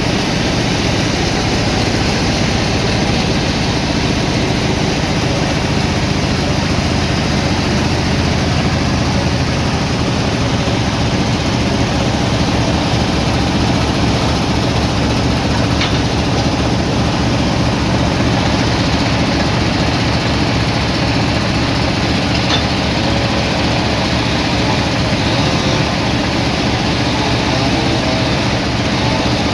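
Sawmill machinery running steadily: a loud, even mechanical drone with a dense rushing noise over it, without pause or change.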